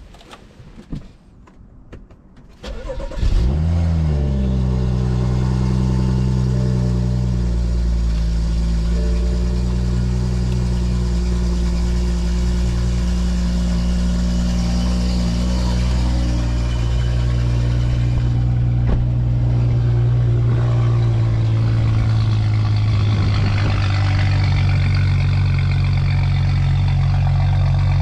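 A 2018 BMW 340i's turbocharged B58 inline-six, with a catless downpipe and dual resonator delete, is started about three seconds in. It flares up in revs and settles into a steady idle. A few faint clicks come before it catches, and near the end the idle note shifts slightly lower.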